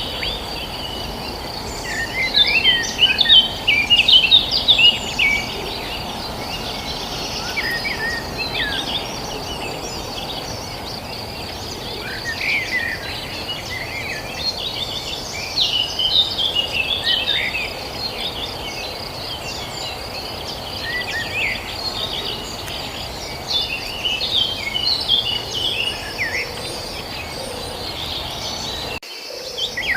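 Many small birds chirping and twittering in quick, scattered calls over a steady high-pitched insect drone and a low hiss of open countryside. The sound briefly drops out near the end.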